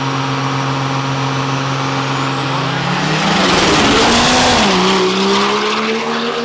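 Turbo-diesel drag trucks launching down the strip. A steady engine note first, then a high turbo whistle climbs and the engines rev up and get louder. The pitch drops once near the end as a truck shifts gear.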